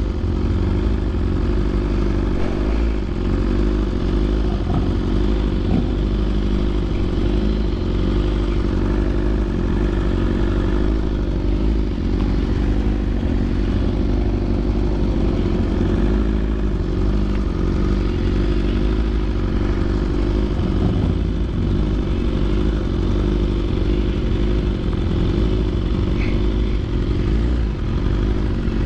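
BMW S1000RR motorcycle's inline-four engine running steadily through aftermarket Arrow titanium headers and an SC Projects CRT exhaust, with some clatter mixed in.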